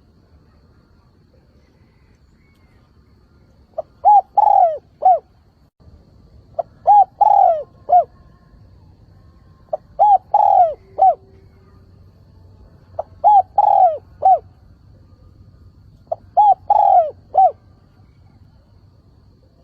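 Spotted dove cooing its calling song, five phrases about three seconds apart starting about four seconds in, each a few short coos around one longer, falling coo. It is a decoy bird's call, used to draw in wild doves and provoke them to call back.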